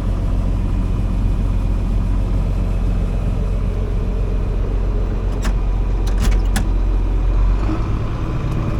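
Truck engine running steadily while driving, heard from inside the cab, with a few sharp clicks or rattles about two-thirds of the way in; the engine note drops near the end.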